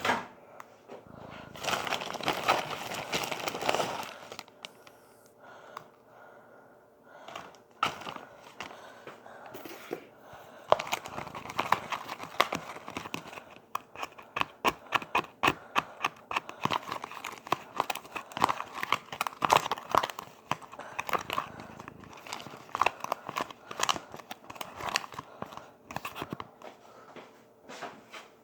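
Packaging crinkling and rustling, a burst about two seconds in and then a long run near the middle and end, mixed with many small sharp clicks and taps. This is typical of a bag of brown sugar being opened and handled.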